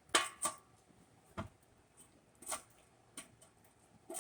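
A handful of light, scattered knocks and taps, about five in four seconds, as exhaust pipe sections are handled and fitted under a car during mock-up.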